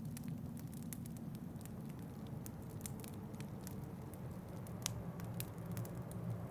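Wood fire in a fireplace crackling, with many scattered sharp pops and one louder pop just under five seconds in, over a steady low rumble of wind.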